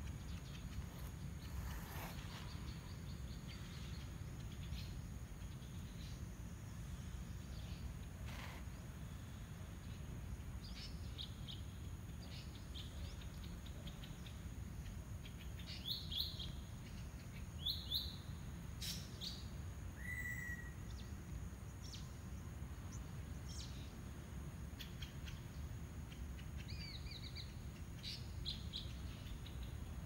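Birds calling in trees: scattered short high chirps, a few coming in quick clusters about halfway through, and one brief clear whistle a little later, over a steady low background rumble.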